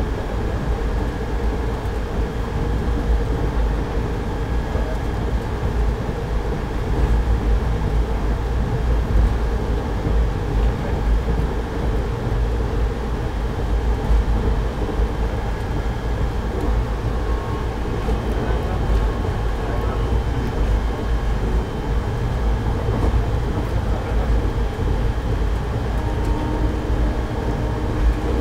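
Passenger train heard from on board while moving along the track: a steady, continuous low rumble with a few faint steady tones above it.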